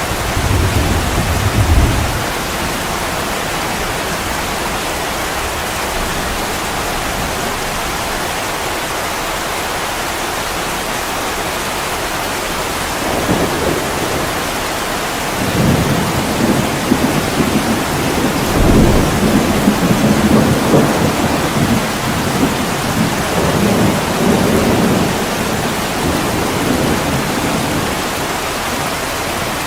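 Heavy rain pouring steadily on an attic window, with low rumbles of thunder: a short one at the start and a longer rolling stretch from about halfway through that lasts some ten seconds.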